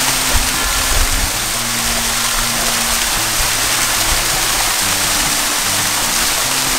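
Steady rushing water of a waterfall, with background music of slow, held low notes underneath.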